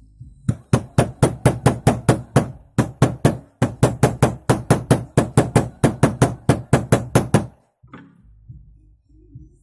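Rapid hammer taps, about four a second for some seven seconds and then stopping, driving a new rubber dust boot onto a steering tie-rod ball joint.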